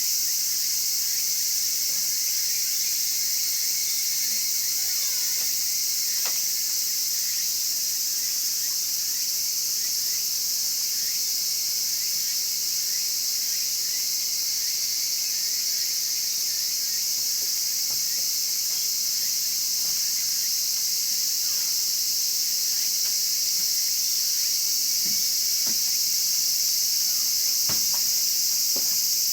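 Steady, high-pitched chorus of night insects, with a few faint crackles and pops from a wood fire burning in a chiminea, more of them near the end.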